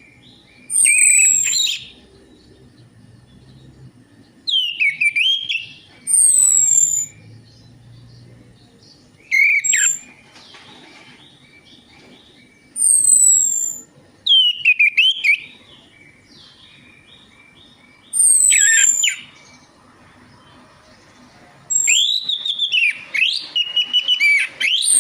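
Orange-headed thrush singing in short, loud phrases of rich whistled notes, each topped by high, quick falling whistles, with pauses of a second or two between them. The phrase near the end is the longest.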